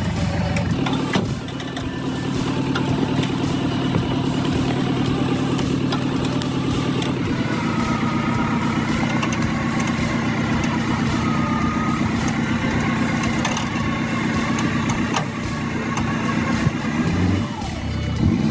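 A machine's engine or motor running steadily with an even hum, its pitch dipping and rising briefly near the end.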